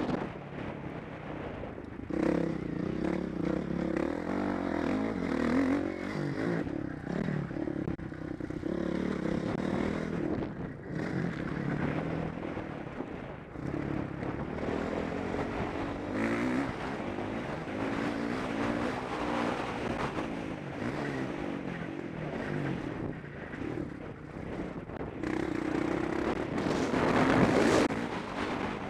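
Motocross bike engine at race pace, its pitch rising and falling as the throttle opens and closes, louder near the end.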